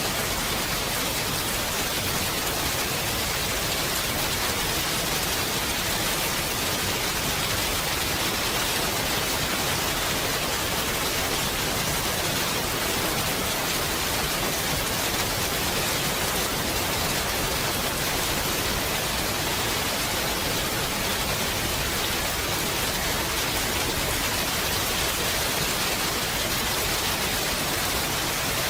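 Steady rain falling, an even hiss with no separate drops or breaks standing out.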